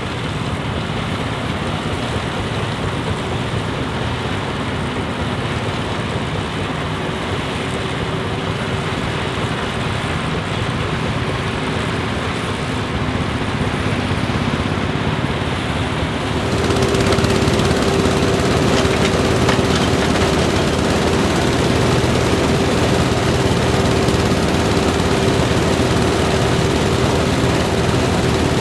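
Claas Huckepack combine harvester running with its VW engine, a steady dense machine noise with a held hum. A little past halfway it suddenly gets louder and brighter.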